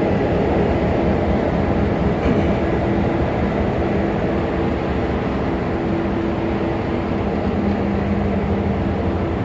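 Excursion train in motion: a steady rumble of the passenger car's wheels rolling on the rails, with faint steady humming tones running through it.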